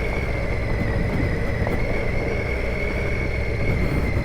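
Triumph Tiger 800 XCa's three-cylinder engine running steadily while riding, with a steady high whine over it.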